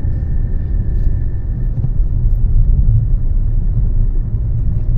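Car driving downhill on a narrow road, a steady low rumble of engine and road noise heard from inside the car.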